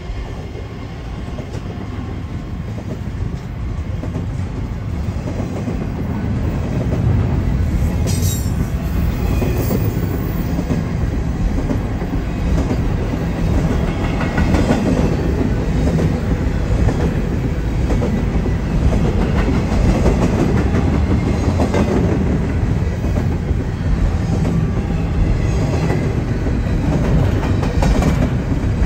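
Double-stack intermodal freight train's container well cars rolling past, a continuous rumble of steel wheels on the rails that grows louder over the first several seconds and then holds steady. A brief high screech comes about eight seconds in.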